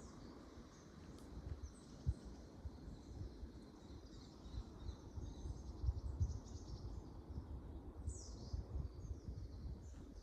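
Birds chirping and calling: short high chirps scattered throughout, with one falling call about eight seconds in, over an irregular low rumble.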